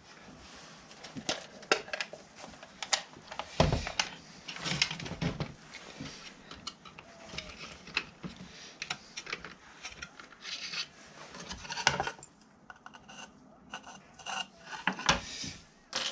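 Irregular clicks, knocks and light clatter of tools and small objects being handled and set down on a work surface, with a heavier knock about three and a half seconds in.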